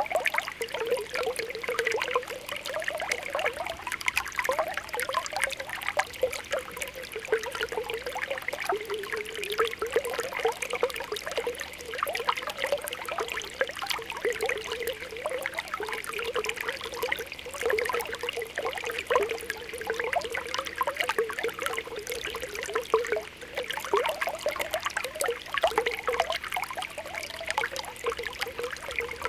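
Spring water welling up from the ground, bubbling and popping in quick irregular blips over a steady trickle.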